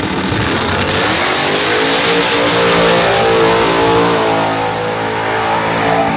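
A race car's engine at full throttle down the drag strip, really loud. Its pitch rises in the first couple of seconds, holds, then drops away as the car goes off into the distance.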